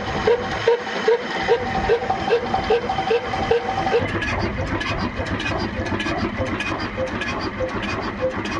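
Old desi diesel engine running with a regular beat of about three pulses a second. About four seconds in the beat changes and the sound turns busier and less even.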